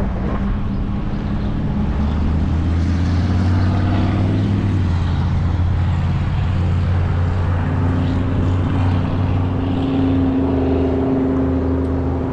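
Riding noise of a Cyrusher Kommoda 20-inch fat-tire electric bike under way: a steady low hum under a continuous rushing noise.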